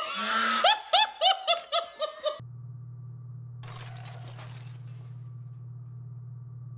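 A short crashing, shattering noise with a person laughing in quick high-pitched bursts, which cuts off abruptly after about two seconds. A steady low hum follows, with a brief hiss about four seconds in.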